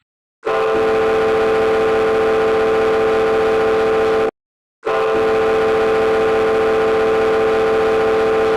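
Ship's horn giving two prolonged blasts of about four seconds each, a steady single-pitched tone with a short gap between them, as a marine sound signal.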